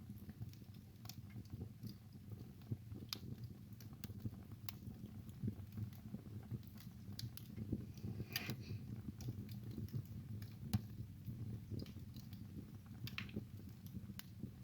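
Wood fire crackling and popping, with irregular sharp snaps over a steady low rumble of the burning logs.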